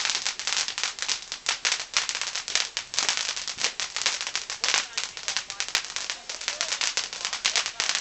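Garden firework going off in a rapid, continuous string of sharp crackling pops, many a second, uneven in loudness.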